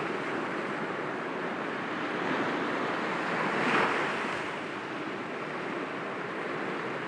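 Sea waves washing in and breaking gently against rocks, a steady surf wash with one wave swelling up and cresting a little past halfway, then easing back.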